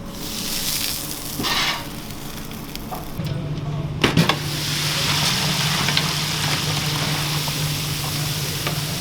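Chicken sizzling in hot frying oil. There is a brief clatter about four seconds in, and a steady low hum joins after about three seconds.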